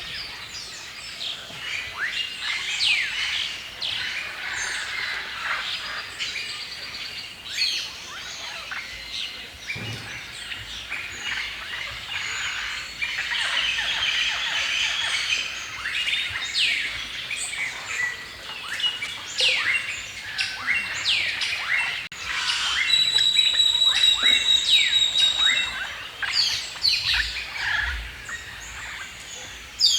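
Several songbirds chirping and singing at once, with many quick, overlapping high notes. About 23 seconds in, a louder, steady high trill runs for about three seconds.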